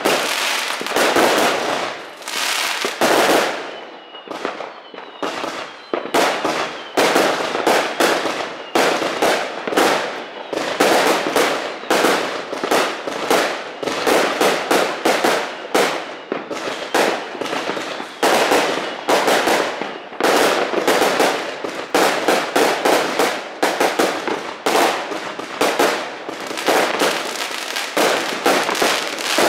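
Many fireworks going off at once across the area: a near-continuous rattle of bangs and crackles, easing briefly about four seconds in.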